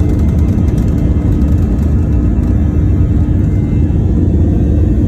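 Airplane taking off: a loud, steady low rumble of the engines, with a steady hum running through it.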